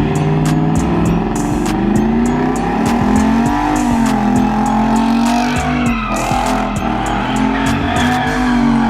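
Car engine revving with tyres squealing as a car drifts, the pitch rising and falling through the slide.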